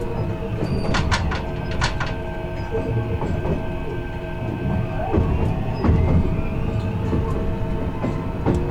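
Kintetsu 16600-series electric train running, heard from the car end: the Hitachi-controlled drive whines in several steady tones over the rumble of the wheels, with a few sharp clicks a little after a second in. Some of the tones bend in pitch about five seconds in.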